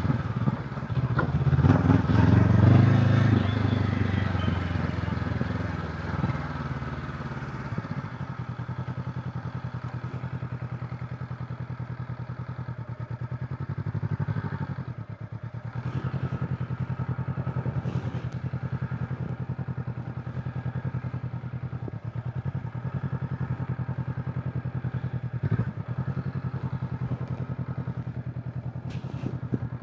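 Honda CB500X parallel-twin engine running hard for the first few seconds, then easing off about seven seconds in to a steady, evenly pulsing low-rpm run, with a few short clicks.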